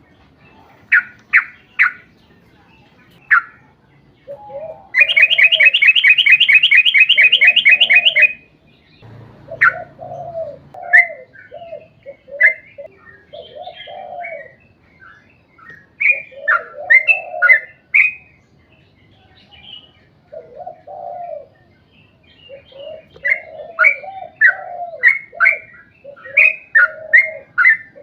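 Yellow-vented bulbul (trucukan) song: short sharp notes and bubbling lower phrases in quick succession, with a long rapid trill lasting about three seconds from about five seconds in. This is the kind of song played to set other trucukan singing.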